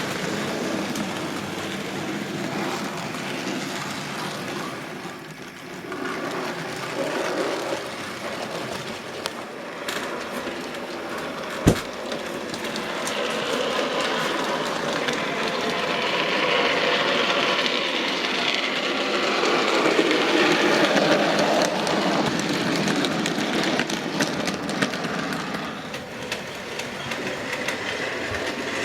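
Model trains running on a model railway layout, a steady running noise from locomotives and wagons on the track that grows louder around the middle as a train passes close. There is a single sharp click about twelve seconds in.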